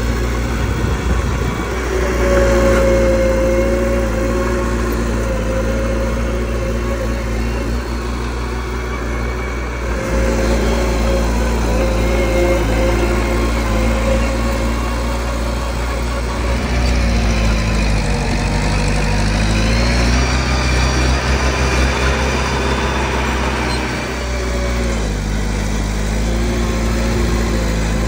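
Mini bulldozer's diesel engine running steadily. Its pitch dips and comes back up twice, first a little past halfway and again near the end, and a thin high whine sits over it through the middle stretch.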